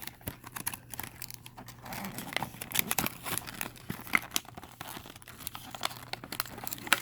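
Plastic blister packaging and card crinkling and crackling as a die-cast model car is worked out of its package, with irregular clicks and short tearing sounds.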